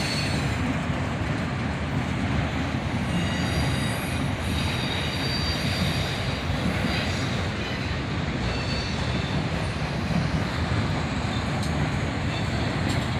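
Autorack freight train rolling past on a curve: a steady rumble of cars on the rails, with faint high-pitched wheel squeal coming and going.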